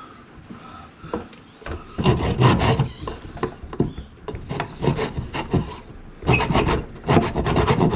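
Hand tool rasping or cutting into wood, worked back and forth in rough, uneven strokes that start about two seconds in.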